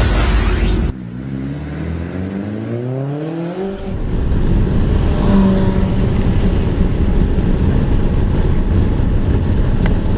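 Abarth 595 Turismo's turbocharged 1.4-litre four-cylinder engine revving up under acceleration, its note rising steadily for about three seconds. It follows a loud rising rush that stops abruptly about a second in. From about four seconds in, a loud steady rush of road and wind noise takes over.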